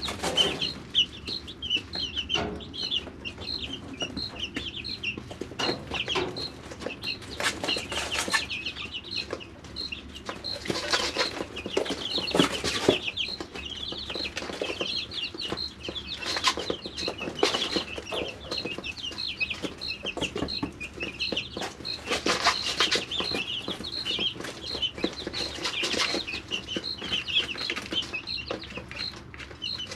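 A brooder of three-week-old chicks peeping: a dense, unbroken stream of short, high cheeps from many birds at once. Brief rustles cut in every few seconds.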